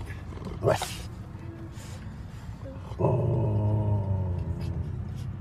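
A dog vocalizing: one short, sharp bark about a second in, then from about three seconds a drawn-out low sound that slowly fades.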